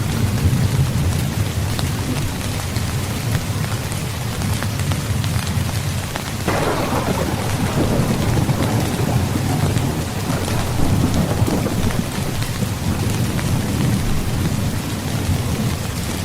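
Steady heavy rainfall with a low thunder rumble underneath. About six and a half seconds in, a thunderclap breaks in and rolls away over several seconds.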